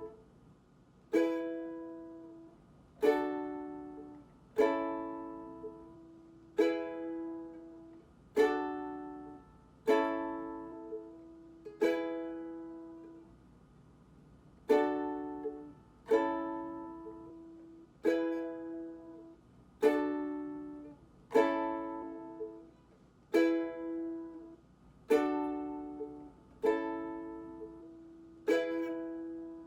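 Ukulele strummed one chord at a time, about one strum every two seconds, each chord left to ring and fade before the next. It is slow practice of the chord changes, moving from D to A to E.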